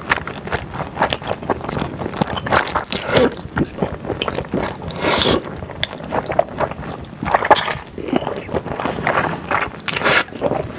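Close-miked eating: wet, sticky chewing of chewy glass noodles and sauced beef, a dense run of small mouth clicks and smacks, with a louder slurp about five seconds in and more slurping near the end.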